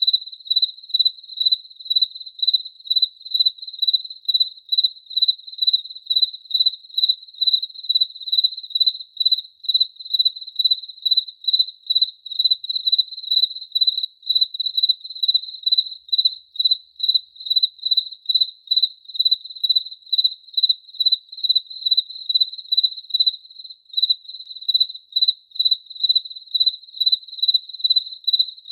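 A cricket chirping steadily in an even rhythm, about two high-pitched chirps a second.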